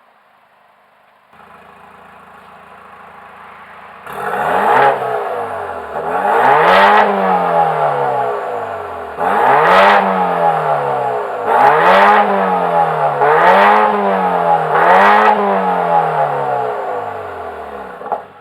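BMW F32 420i's turbocharged four-cylinder engine through an iPE Innotech valved performance exhaust: a faint idle, then about four seconds in it becomes much louder and is revved six times, each rev rising and falling back.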